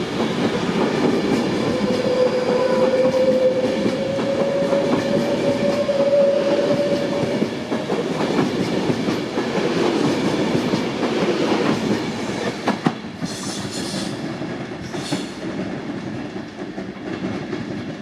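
Class 390 Pendolino electric train pulling out and accelerating, its traction motors whining in a tone that rises slowly in pitch over the first several seconds while its wheels clatter over the points. Two brief high hisses come near the end as the sound begins to fade.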